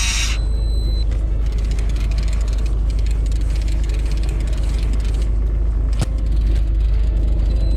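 Fishing boat's engine running, a steady low rumble, with one sharp knock about six seconds in.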